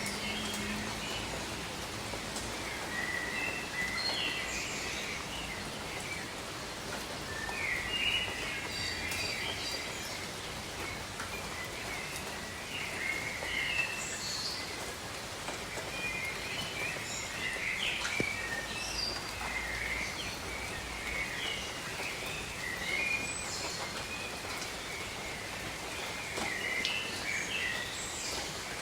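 Steady rain falling over a jungle, with birds chirping and calling in many short phrases throughout.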